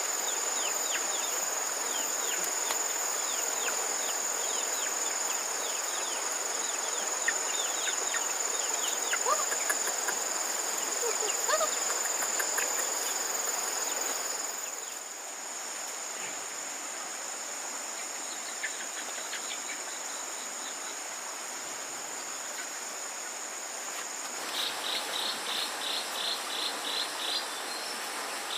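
Forest insects: a steady high-pitched drone that stops about 24 seconds in, then an insect chirping in quick even pulses, about four a second.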